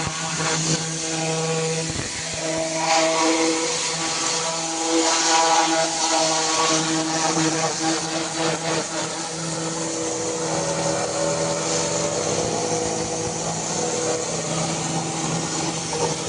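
Electric pressure washer running: a steady motor hum under a continuous hiss of spray.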